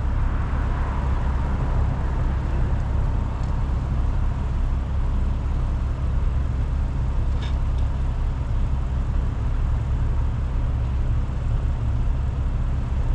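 Steady low rumble from a BMW M340i on the move: wind buffeting the rear-mounted microphone, mixed with the exhaust of its turbocharged B58 straight-six at an even cruise.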